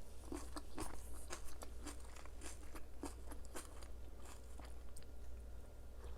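Close-miked chewing of crunchy food, with an irregular run of crisp crunches as each bite is worked.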